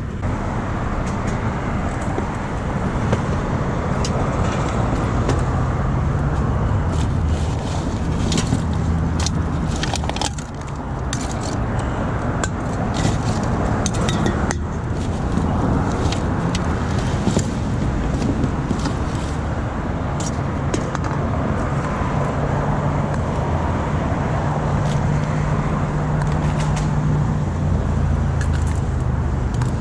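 Steady road traffic noise with car engines swelling and fading, scattered with many light clicks and rattles.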